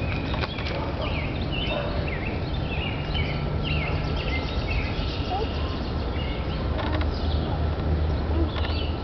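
Birds chirping, many short sliding calls in quick succession, over a steady low rumble.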